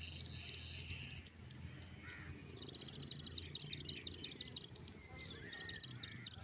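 Small birds chirping in quick, high repeated notes, in several bursts, over a steady low background rumble.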